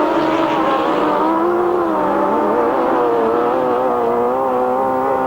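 Grasstrack racing motorcycles at full throttle, several engines blending into one steady, loud note whose pitch wavers slightly as the riders work the throttle through the corners.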